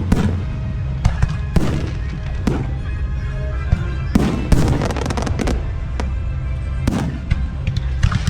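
Aerial fireworks shells bursting in a display, sharp bangs at irregular intervals about once a second, with music playing underneath.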